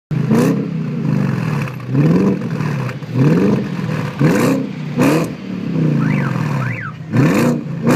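BMW engine revved in sharp blips through a loud exhaust, about six times, each rev dropping back toward idle.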